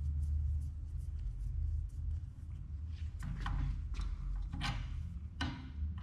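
Short metallic clicks and scrapes from a hand threading die and its die stock being taken off and set back on a steel bolt held in a vise, coming thicker from about halfway through, over a low steady hum.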